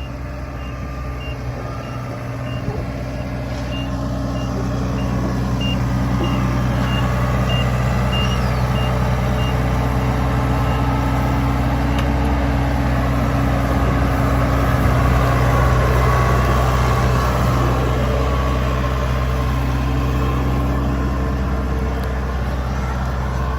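Kubota rice combine harvester's diesel engine running steadily, growing louder over the first few seconds. A high warning beeper sounds about twice a second for roughly the first nine seconds.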